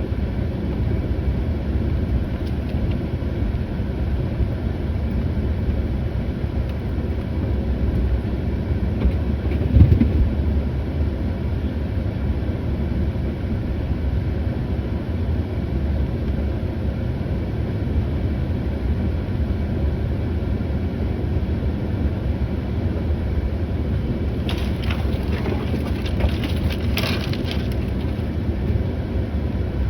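An engine running steadily, with a low rumble, a brief knock about ten seconds in and a stretch of clattering near the end.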